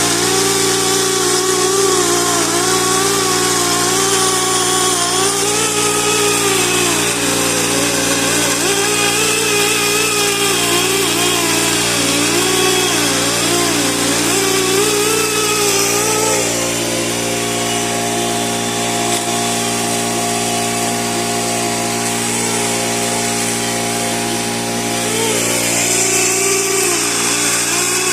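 Die grinder running continuously with a carbide burr bit, grinding the heads off rusted bolts. Its pitch wavers up and down as the load on the burr changes.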